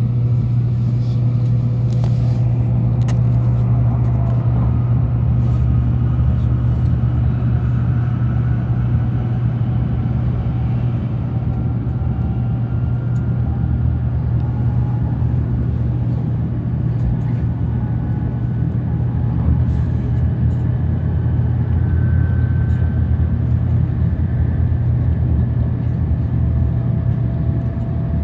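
Sanyo Shinkansen train running: a steady low rumble and hum, with a faint whine that slowly rises in pitch.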